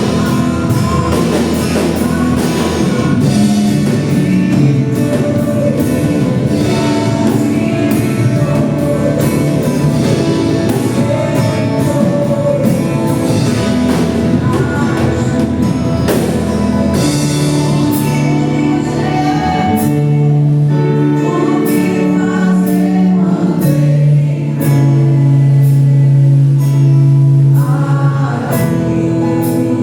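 Live gospel worship music: a group of singers in chorus over a band with guitar and drums, with a steady beat.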